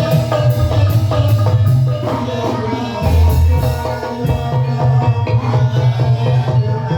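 Ebeg accompaniment music: a Javanese gamelan-style ensemble of struck keyed instruments and drums playing a steady, regular pattern.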